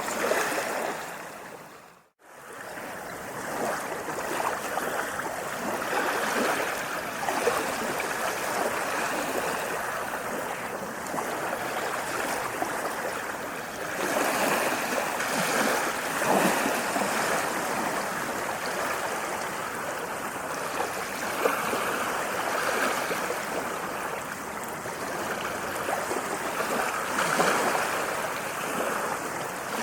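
Running water, a steady rushing and splashing that swells and eases. About two seconds in it fades briefly to silence and comes back.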